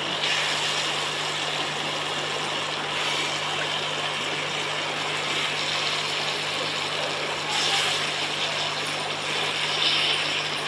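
Raw chicken pieces sizzling and frying in hot ghee with onions and tomatoes in a steel kadai: a steady hiss that swells briefly twice, over a steady low hum.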